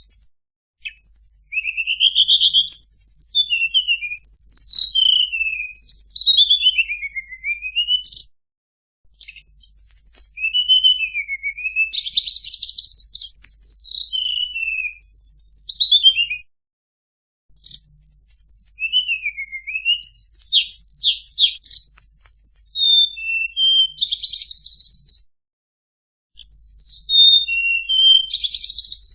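A tledekan songbird singing: clear high whistled phrases, many sliding downward, mixed with a few rapid buzzy trills. The song comes in bursts with short pauses about eight, seventeen and twenty-six seconds in.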